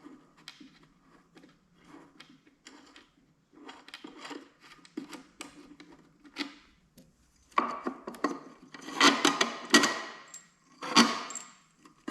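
A wrench working a nut off a bracket on a small engine, with scattered metal clicks at first, then louder clinks and rattles of metal parts in the second half.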